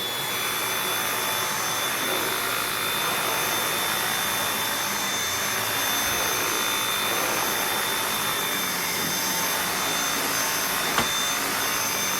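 Dyson V8 cordless stick vacuum switched on and running steadily: a loud rush of air with a constant high-pitched motor whine. There is a single click about eleven seconds in.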